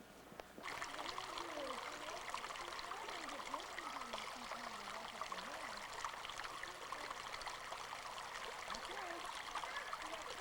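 Small stream trickling and babbling over rocks, a steady splashing with gurgles, cutting in abruptly about half a second in.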